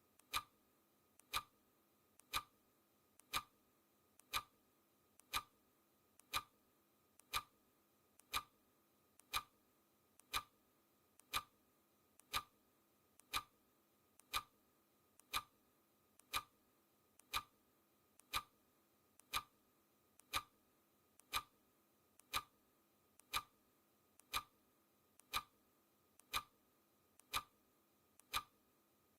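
Clock ticking sound effect, one sharp tick a second, each with a fainter click just before it.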